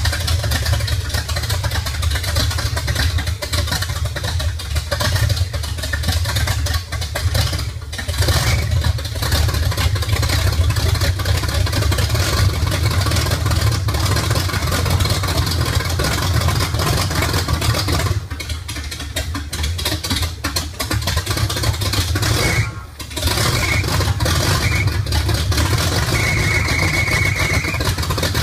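Ford engine running, its throttle worked by hand at the carburetor so the revs rise and fall, with brief drops in level about 8, 18 and 23 seconds in.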